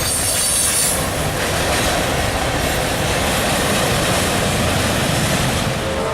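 A train's cars rolling past on the rails, a loud steady rumble and rush of wheels, with a high-pitched wheel squeal that fades out about a second in.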